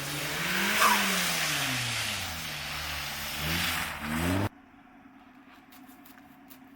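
Car engine revving up and down several times over a loud rushing noise, then cutting off abruptly about four and a half seconds in, leaving a faint background with a few light ticks.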